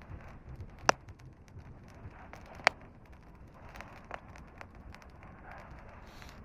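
Campfire crackling, with two loud sharp pops, one about a second in and one near the middle, and scattered fainter ticks.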